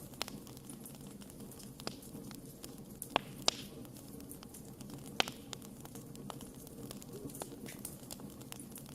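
Wood campfire burning with a steady low rumble and scattered sharp crackles, the loudest pops a little after three seconds, at about three and a half seconds and just after five seconds.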